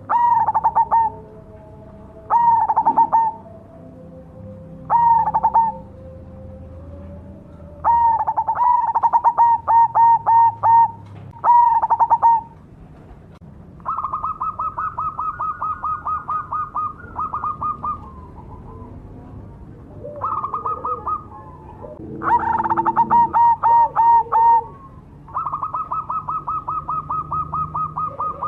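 Zebra dove (perkutut, black cemani variety) singing: repeated cooing phrases, each a quick string of short notes, with pauses between. Two long even runs of rapid short notes come in the middle and near the end.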